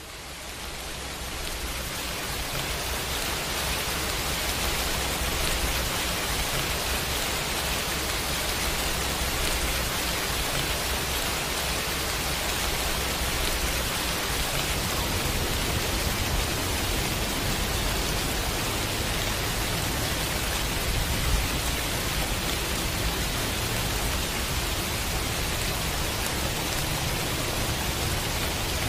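Steady pouring rain that fades in over the first few seconds and then holds even, with a low rumble underneath that grows about halfway through.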